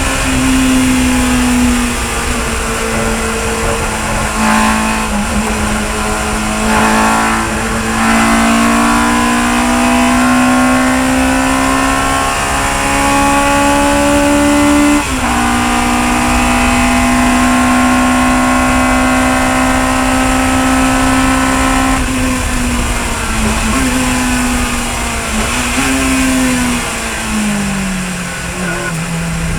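Chevron B19 sports racing car's engine running hard on track. The engine note climbs slowly, then drops sharply at an upshift about halfway through and holds steady. Near the end it steps down several times as the driver changes down through the gears.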